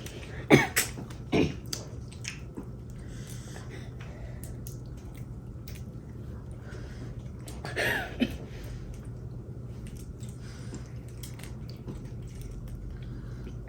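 Eating a saucy seafood boil: sharp clicks and cracks of shells being pulled apart, mostly in the first second and a half, with wet squishing and chewing, and a brief louder sound about eight seconds in. A steady low hum runs underneath.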